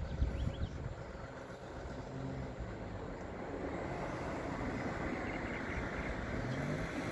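Drill rig truck's engine running steadily with a low mechanical drone, growing slightly louder after about three seconds.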